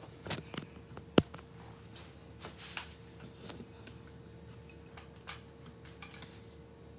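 Light clicks and clinks of kitchen handling, with one sharp, loud click about a second in and a few softer knocks after it.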